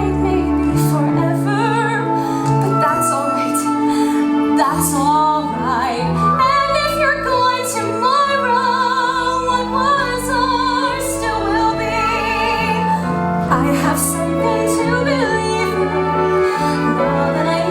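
A woman singing a slow musical-theatre ballad with strong vibrato on long held notes, over sustained accompaniment.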